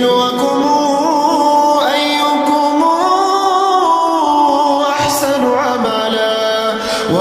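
Melodic Quran recitation: a solo voice chanting in long held notes with ornamented turns in pitch.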